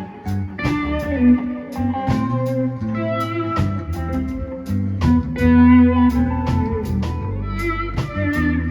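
Live band playing an instrumental break: electric guitar picking a lead line over bass and a steady drum beat.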